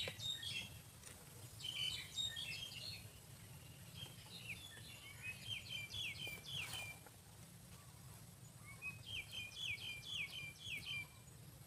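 Small bird calling in quick runs of short, falling chirps, several runs spaced a second or two apart, over a faint steady low rumble.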